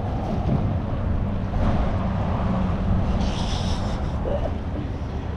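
Wind buffeting the microphone, a steady low rumble, with a brief hiss about three seconds in.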